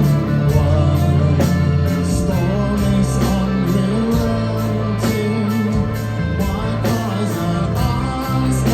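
Live rock band playing: electric guitars over bass and drums, with steady drum and cymbal hits.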